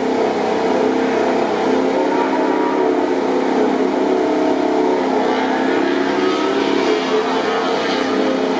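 MotoGP racing motorcycle engines running at steady revs, a dense engine drone that holds level throughout.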